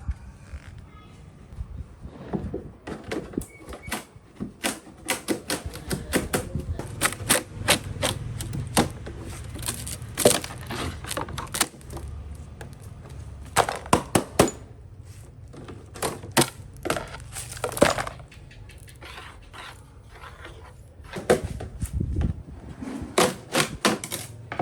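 Irregular sharp knocks and taps from tools striking material, some in quick runs of several a second, over a low steady hum.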